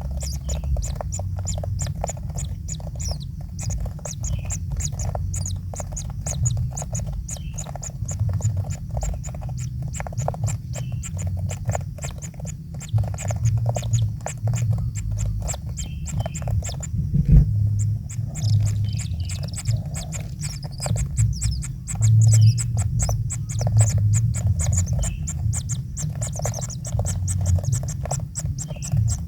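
Kingfisher nestlings calling in the nest: a continuous rapid ticking rattle, with a steady low hum underneath.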